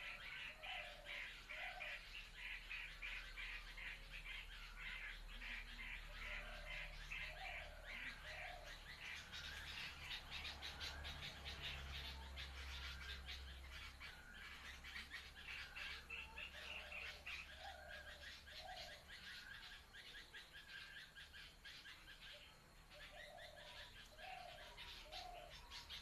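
Birds, including common bulbuls, calling in scrub. A dense run of quick, sharp chirps goes on throughout, and a lower three-note call comes back every several seconds.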